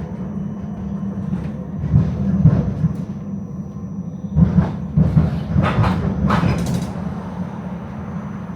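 Tram running on its rails: a steady low rumble, with a few short louder clattering bursts about halfway through.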